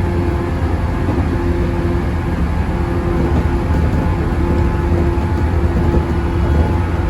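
Running noise inside a JNR-era local electric train on the move: a steady low rumble from the wheels and track, with a steady hum that comes and goes.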